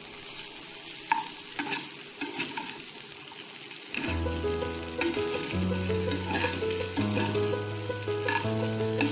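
Instant noodles with peas and chopped onion frying in a pan: a steady sizzle, with a spatula stirring and scraping against the pan in scattered clicks. Background music with held notes comes in about four seconds in.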